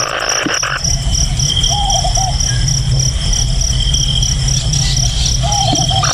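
Insects chirping in a steady, evenly pulsed high tone, over a low hum, with a short lower trill twice.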